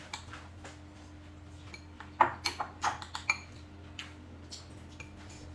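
Utensils clinking and tapping against dishes, a scatter of short clicks with light ringing that comes thickest around the middle, over a faint steady hum.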